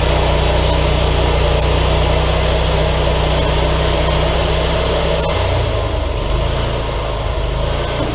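Wood-Mizer LT40 sawmill's engine running steadily; about five seconds in a click is heard and the engine's note changes and drops slightly.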